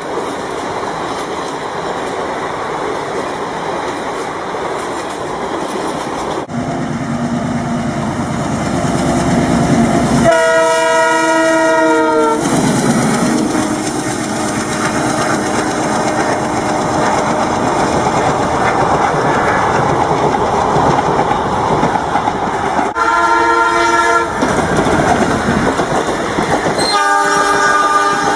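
Full-size train sound effect: the steady rumble and wheel clatter of a moving train, with a multi-tone locomotive horn blowing three times, a long blast of about two seconds about ten seconds in, then two shorter ones later. The sound changes abruptly at several points, as if spliced.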